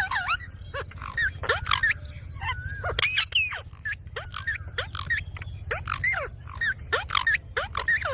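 Green pet parrot giving a quick series of short squawking calls, some rising and some falling in pitch, over a steady low hum.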